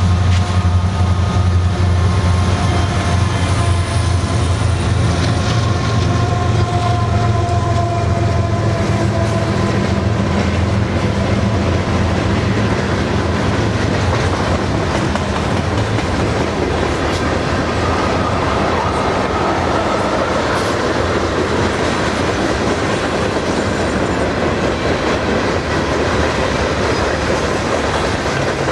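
Union Pacific mixed freight train passing close: the lead diesel locomotives' engines drone loudly and fade over the first dozen seconds, then a steady rolling rumble and wheel clatter as the boxcars go by.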